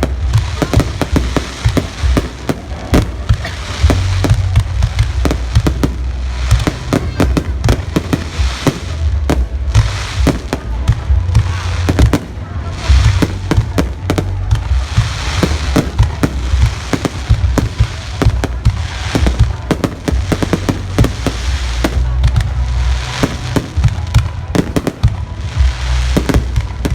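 Fireworks going off: a dense, irregular string of sharp bangs and crackles from bursting shells, over a steady low rumble.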